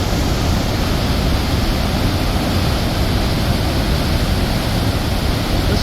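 Athabasca Falls on the Athabasca River: the steady, loud rush of water pouring through a narrow rock gorge.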